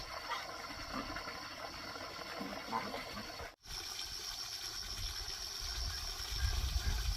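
Steady outdoor background noise with an even high-pitched hiss, broken by a sudden cut about three and a half seconds in; a low rumble grows near the end.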